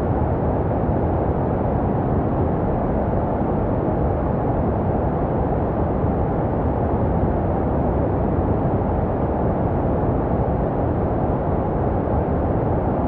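Steady, unbroken rushing noise, deep and muffled with little treble: a baby white-noise track, made to resemble the sounds heard inside the womb.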